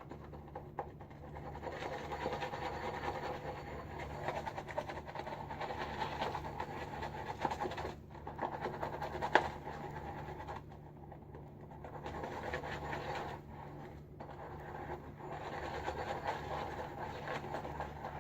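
Firm boar-bristle shaving brush churning shaving soap into lather in a bowl: a wet, scratchy swirling with short pauses, breaking up small lumps of soap.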